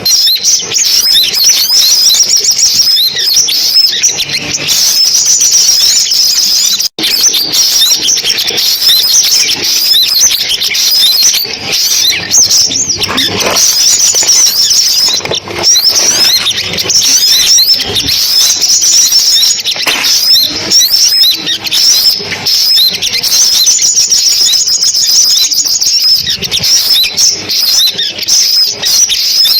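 Recorded sunbird song: a dense, loud run of rapid high-pitched chirps and trills with no pause, broken only by a momentary dropout about seven seconds in. This is the kind of call recording played through a speaker to lure sunbirds to a trap.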